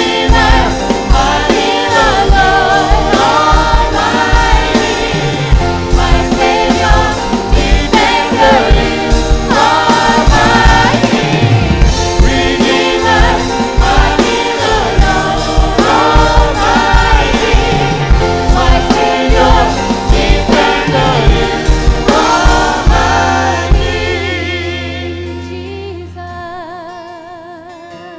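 Gospel-style worship song with a choir singing over a drum kit and band; the music fades out over the last few seconds, leaving a held, wavering tone.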